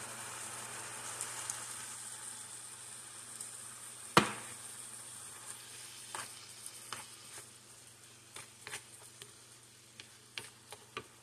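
Ground beef and mixed vegetables sizzling in a skillet as tomato paste is stirred in with a plastic spoon, the sizzle slowly fading. A single sharp knock about four seconds in, then light clicks of the spoon against the pan.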